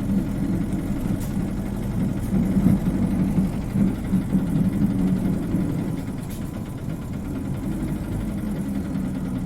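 Isuzu Cubic KC-LV380N city bus engine running, heard from inside the passenger cabin as a steady low hum, with a couple of faint clicks.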